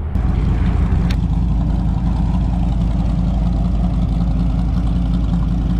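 An airboat's engine and propeller running with a steady low drone, loud from the start, with a brief click about a second in.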